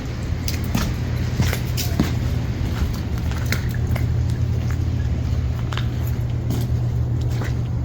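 Steady low rumble of a car driving, with scattered irregular clicks and crackles over it.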